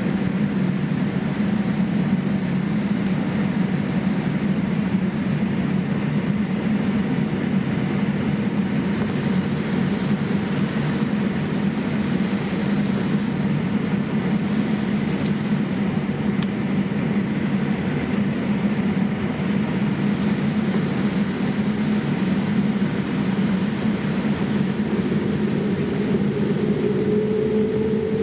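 Steady engine and airflow noise inside the passenger cabin of a Boeing 787-8 airliner, with a deep, even rumble. Near the end a faint tone creeps slightly upward.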